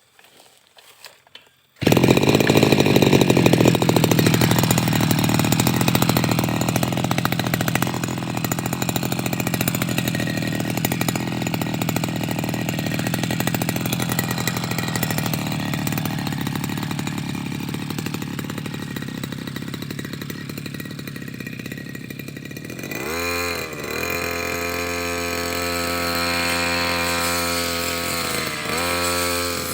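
Petrol brush cutter (strimmer) engine running at high speed while clearing undergrowth, cutting in abruptly about two seconds in. Near the end its note turns clearer and dips briefly in pitch a couple of times.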